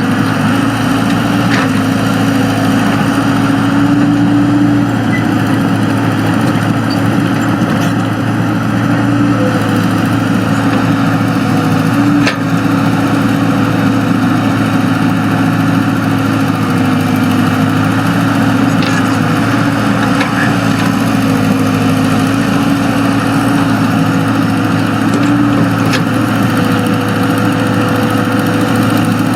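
Excavator's diesel engine running steadily, its pitch wavering slightly, with a few sharp knocks.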